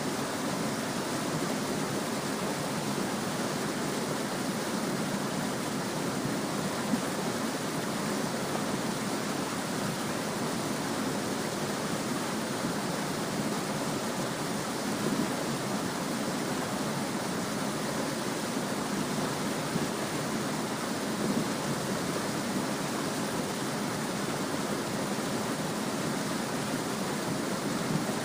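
Small stream running steadily over its bed, a continuous even babble of water with a few brief louder moments.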